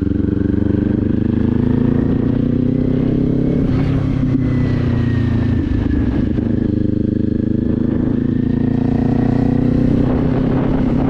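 Kawasaki Z400's parallel-twin engine running steadily at a near-constant engine speed, its note shifting only slightly.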